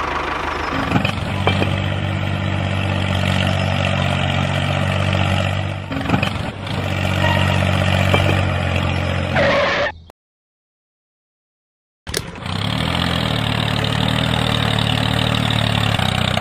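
Miniature model tractor's motor running steadily with a low hum. It cuts off abruptly about ten seconds in, leaving two seconds of dead silence, then runs again.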